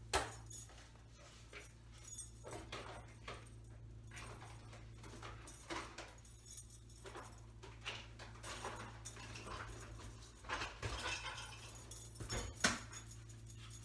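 A dog whimpering softly, among scattered light clicks and taps of kitchen work, over a steady low hum.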